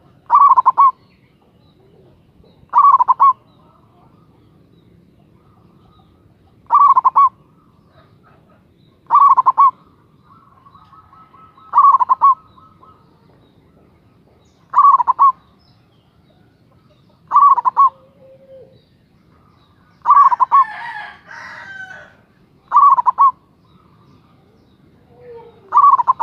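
Zebra dove (perkutut) of the local Javanese strain singing its short rolling coo phrase over and over, about once every two and a half to three seconds, loud and clear. Around twenty seconds in, a brief scratchy chatter sounds between two phrases.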